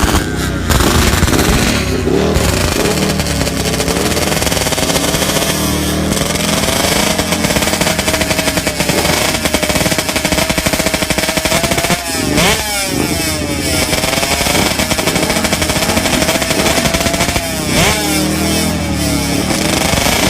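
Superbike engine revving hard at high rpm, accelerating through the gears. The pitch climbs steadily and drops sharply at each shift, several times in the second half.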